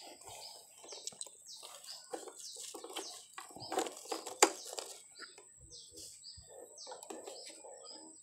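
Small birds chirping over and over in short, high chirps that fall in pitch, over low rustling noise. There is a sharp click about four and a half seconds in.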